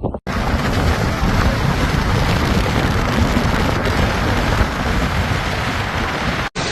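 Heavy wind-driven rain in a severe windstorm: loud, steady noise of rain with strong wind buffeting the microphone. It starts abruptly just after the beginning and cuts off near the end.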